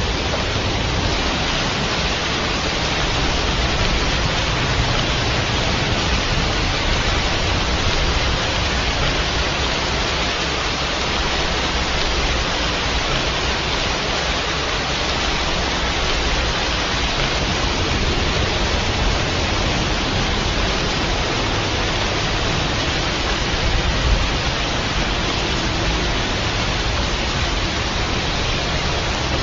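Steady rainfall, an even, unbroken hiss of rain with no single drops standing out.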